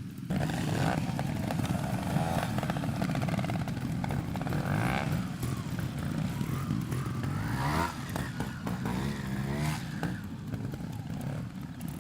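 Trials motorcycle engine running at low revs with repeated throttle blips, its pitch rising and falling as the bike is worked through a section.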